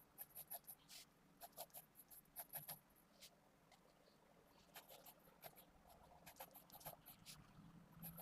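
Faint scratching of a Pentel GraphGear 500 mechanical pencil with 0.5 mm 2B lead on paper: quick short sketching strokes in clusters, with pauses between. The clusters come near the start, from about a second and a half to nearly three seconds in, and again from about five to seven and a half seconds.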